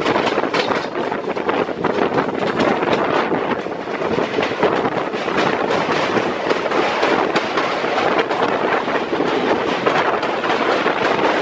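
Passenger train running on the track at speed: a constant loud rush with many sharp clacks and knocks from the wheels over the rails.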